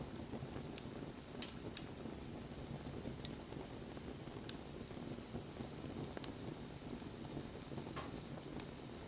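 Wood bonfire burning: irregular sharp crackles and pops over a steady low rush of flame.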